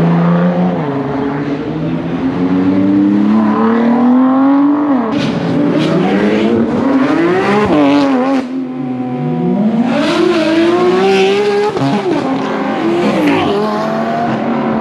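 Supercar engines accelerating hard as the cars pull away, each pitch climbing through the revs and dropping back at the gear changes, several times over, with crackling in the middle stretch.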